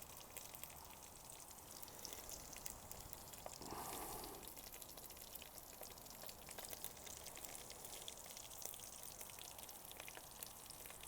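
Sausages frying in a pan on a camping stove: a faint, steady sizzle with fine crackling.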